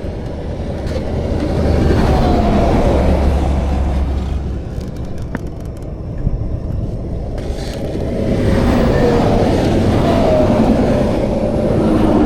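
Highway traffic rushing past close by: one vehicle swells up and fades about two seconds in, and another about eight seconds in. A few light clicks come in the lull between them.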